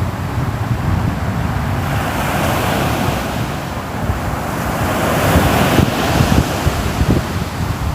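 Ocean waves breaking and washing on the shore, a continuous surf rush that swells and eases, with wind buffeting the microphone.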